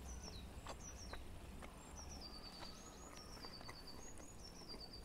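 A songbird singing faintly: several repeated phrases of high, clear notes that step down in pitch, over a soft steady background hiss with a few faint clicks.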